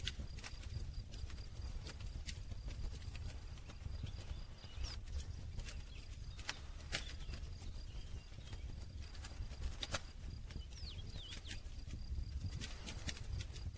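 Campfire crackling: burning wood gives irregular sharp pops and snaps, some close together, over a steady low rumble.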